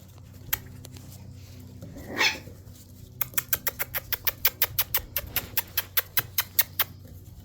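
Shiba Inu puppies at play: a brief squeak, then a fast run of sharp clicks, about six a second for nearly four seconds, over a steady low hum.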